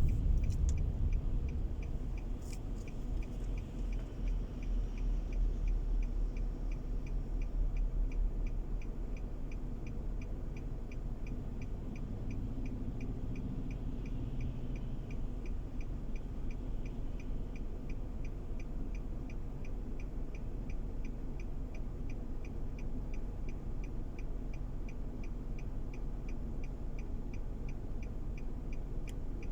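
Car turn-signal indicator clicking at a steady, even rate over the low hum of the car's engine and road noise heard from inside the cabin. The rumble eases off over the first few seconds and then stays steady.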